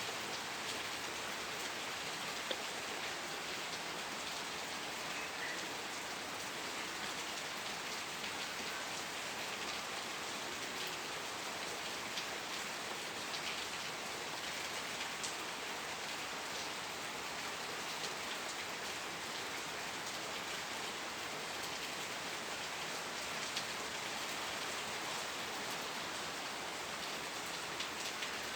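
Steady rain falling and pattering on a surface, a dense even hiss with many small drop ticks.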